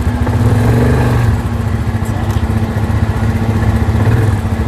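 Quad bike (ATV) engine running at steady low revs, dropping a little in level about a second and a half in.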